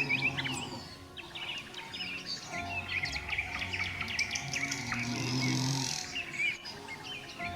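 Several birds chirping and twittering together, with many short, overlapping high calls and trills. A low steady tone sounds twice beneath them.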